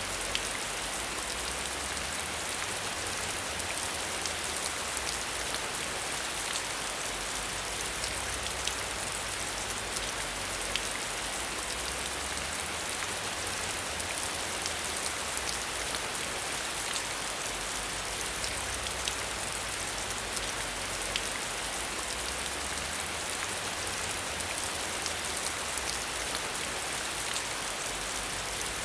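Steady rain falling, an even hiss with many distinct raindrop ticks scattered through it.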